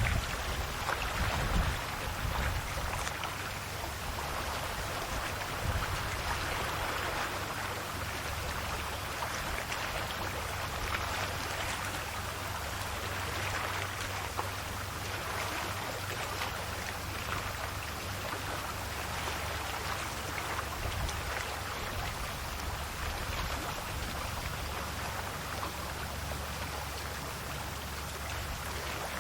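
Calm Adriatic Sea waves lapping and washing on the shore. A soft hiss of water swells and eases every few seconds, over a steady low rumble.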